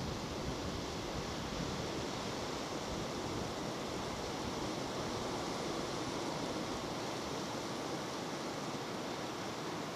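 Steady rushing noise of strong wind and rain, even and unbroken, with no distinct drips or gusts standing out.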